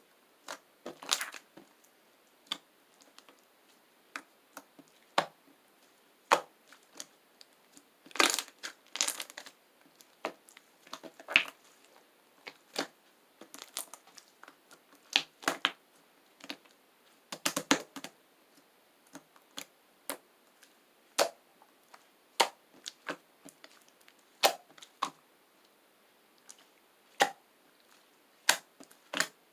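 Chocolate slime being worked by hand, giving irregular sharp clicks and crackly pops, with a few quick flurries among single snaps.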